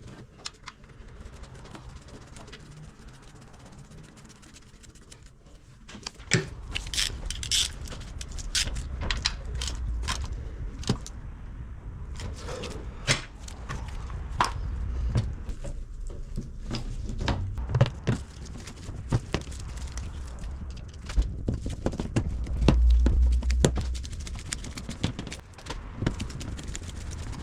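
Scattered metallic clicks, taps and scrapes of handling, quiet at first and coming thick and fast from about six seconds in, over a low rumble that swells near the end.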